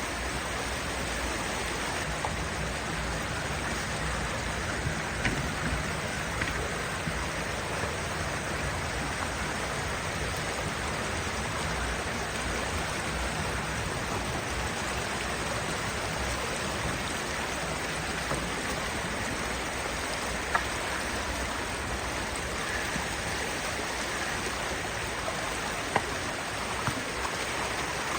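Rushing creek water, a steady even hiss, with a few sharp clicks now and then.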